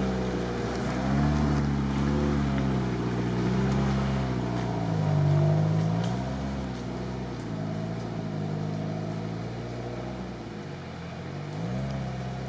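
Lada Niva's four-cylinder petrol engine revving up and down as it pushes through a deep, water-filled track. The revs rise and fall every second or two, growing fainter toward the end.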